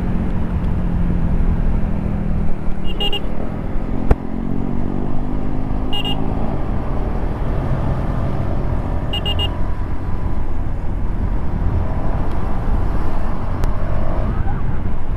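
KTM RC 390's single-cylinder engine running under way, its note rising and falling with the throttle over a constant low rumble. Three brief high beeps sound a few seconds apart.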